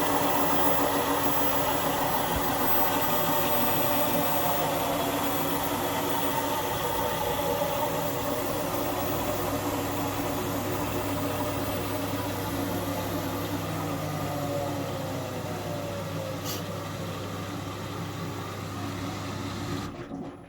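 Indesit 1400-spin washing machine's drum motor and drum running with the covers off. The pitch slowly falls and the sound fades as the drum slows, with a single click about three-quarters of the way through, and then it cuts off abruptly near the end.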